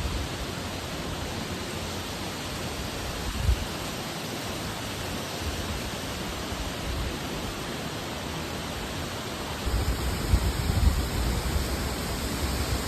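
Steady rushing noise of fast-moving water, with low rumbling gusts on the microphone from about ten seconds in.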